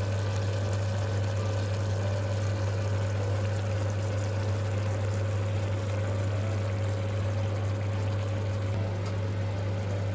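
Food cooking in a pan on the stove: a steady wet bubbling hiss of simmering or frying, over a steady low electric hum.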